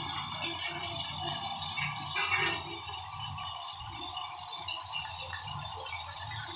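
Chicken pieces sizzling as they fry in mustard oil in a steel kadai, with a sharp metal clink against the pan about half a second in.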